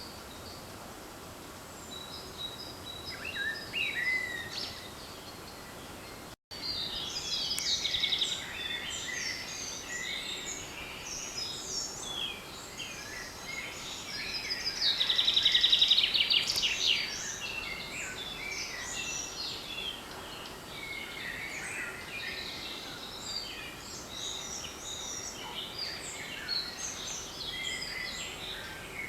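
Many songbirds singing at once in spring woodland, phrases overlapping throughout. A nearby bird gives a loud, rapid trilled phrase twice, about seven and fifteen seconds in. The sound breaks off for an instant about six seconds in.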